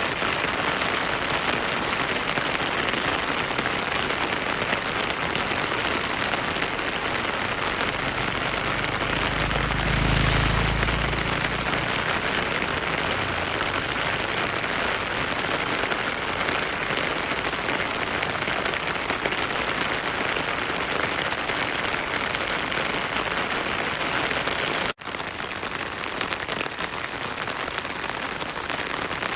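Heavy rain falling steadily, a dense even hiss, with flowing stream water mixed in. A low rumble swells briefly about ten seconds in. Near the end the sound cuts out for an instant and resumes a little quieter.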